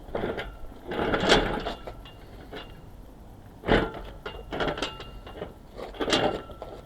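Hydraulic engine hoist being hand-pumped to lift an engine: creaking, clanking strokes about every two and a half seconds, with short metallic squeaks.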